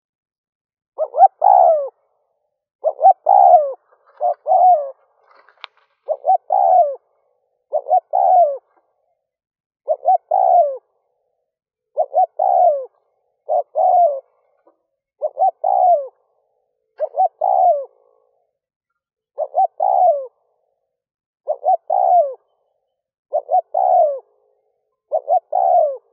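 Spotted dove (Streptopelia chinensis) cooing. It repeats a short phrase of several coos about every two seconds, around fourteen times.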